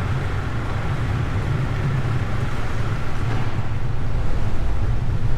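A small boat's engine running steadily under way, a low drone with rushing noise.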